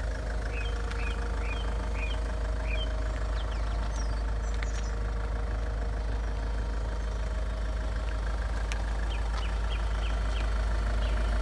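Jaguar XF's 2.2-litre four-cylinder turbodiesel idling steadily.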